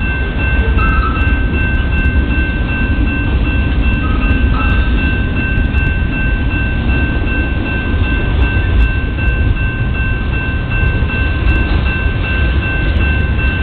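Freight train of tank cars and covered hoppers rolling past at steady speed: a continuous deep rumble of wheels on rail, with a steady high whine running through it.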